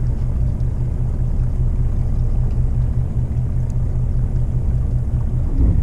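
Fishing boat's engine running steadily, a low, even rumble with a regular throb.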